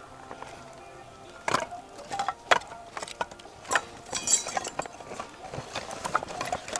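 A series of irregular sharp knocks and clinks, about a dozen, the loudest about two and a half seconds in.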